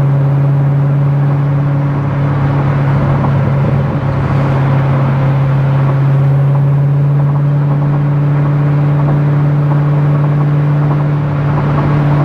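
C6 Corvette Z06's 7.0-litre LS7 V8 running at a steady cruise, a constant low drone that holds one pitch with only slight dips in level.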